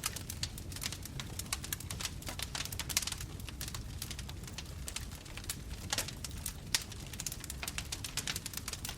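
Bonfire crackling: irregular sharp pops and snaps of burning wood over a steady low rumble of the flames, with two louder pops about three and seven seconds in.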